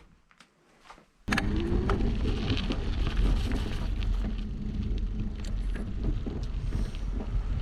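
Wind buffeting the camera microphone and tyre noise from a moving e-bike, coming in suddenly about a second in after near quiet, steady with scattered small clicks.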